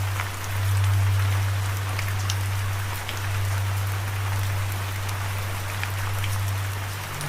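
Steady rain, an even hiss with scattered individual drop ticks, over a steady low hum that is the loudest thing throughout.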